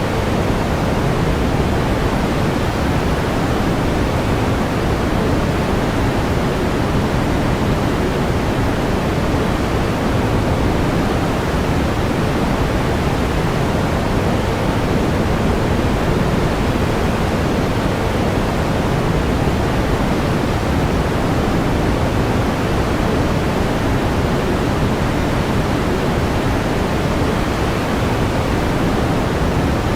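Steady pink noise: an even, unchanging hiss, heavier in the low end, with no breaks or events.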